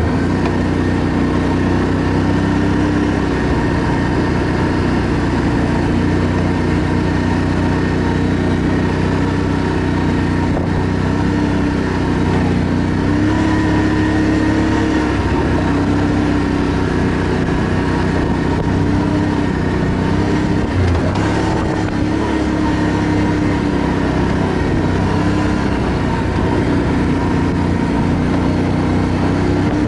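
ATV engine running steadily under way, its pitch wavering a little up and down.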